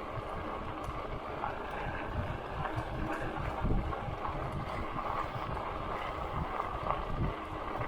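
Steady riding noise of a Lectric XP folding e-bike on a trail: tyres rolling with a continuous hiss, wind buffeting the camera microphone in irregular low gusts, and a few light ticks and rattles.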